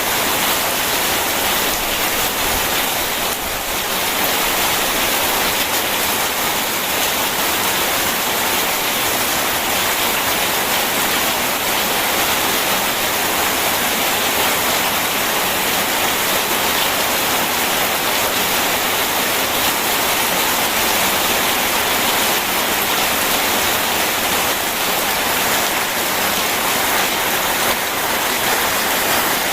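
Steady rain mixed with rushing river water, an even, unbroken hiss.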